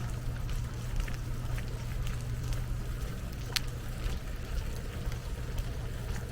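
Outdoor street ambience: a steady low rumble of wind on the microphone, with scattered brief high chirps and ticks and one sharper click about three and a half seconds in.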